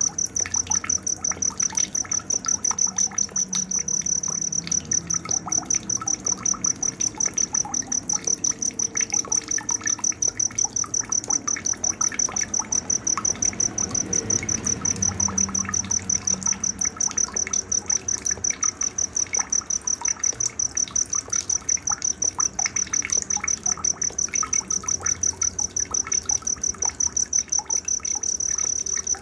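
Night insect sound: a cricket trilling without pause in a fast, even, high-pitched pulse, with faint scattered chirps underneath.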